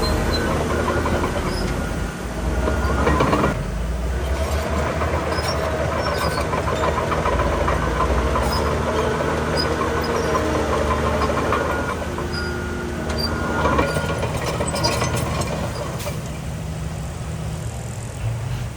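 Heavy diesel earthmoving machinery working: a large engine runs steadily under load, with metallic clanking and short high squeaks from the running gear.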